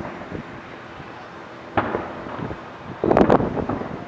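Distant aerial firework shells bursting: a single bang about two seconds in, then a rapid cluster of several bangs near the end, each trailing off in a short echo.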